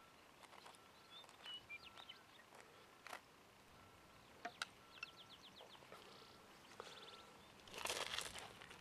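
Quiet outdoor air with faint, scattered bird chirps, a short quick trill about halfway through, and a few light clicks. Near the end comes a brief rustle of handling, the loudest sound.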